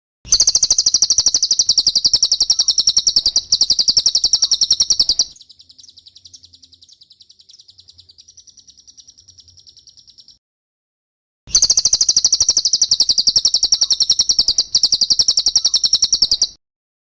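Cililin song: long, fast, high-pitched trills of rapidly repeated notes. One strong trill runs about five seconds, then a softer one about five seconds, and after a pause of about a second another strong five-second trill.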